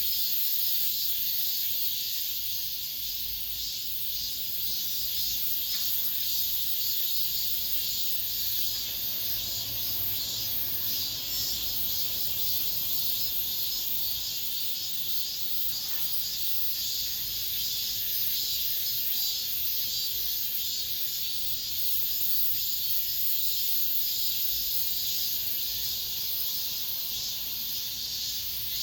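Cicadas singing: a steady, high-pitched buzzing chorus that keeps on without a break.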